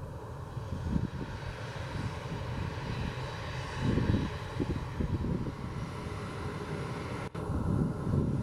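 Boeing 737-300F jet engines running with a dense, uneven low rumble and a faint high whine above it, with a brief break about seven seconds in.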